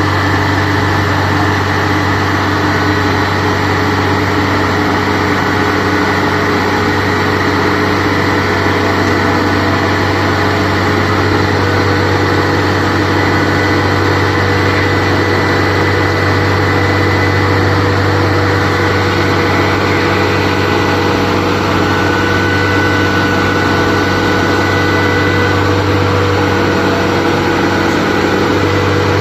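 Kubota DC70 Plus rice combine harvester's diesel engine running steadily at a constant speed.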